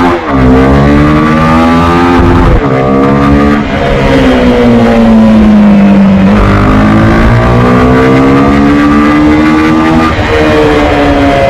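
Honda CB300R's single-cylinder engine under way, its pitch climbing under throttle and dropping sharply at each gear change, about four times. Near the middle the revs ease down for a couple of seconds before climbing again.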